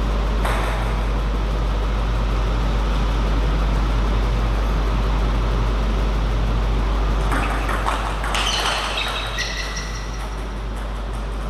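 Steady low hum under an even background noise, with a few sharp clicks and a short higher pitched sound about eight to nine seconds in.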